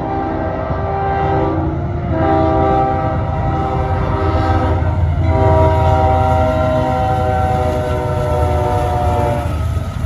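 Diesel locomotive's air horn sounding a chord in several long blasts, the last one held about four seconds and stopping just before the end, over the low rumble of the moving train.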